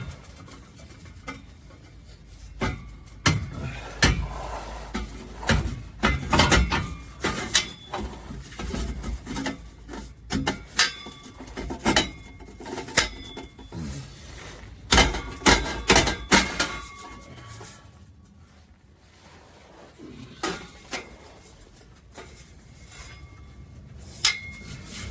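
Stainless-steel exhaust pipe clanking and knocking as it is pushed and slid into place on its hangers: a string of irregular metallic clinks and knocks, some ringing briefly, quieter for a while in the last third.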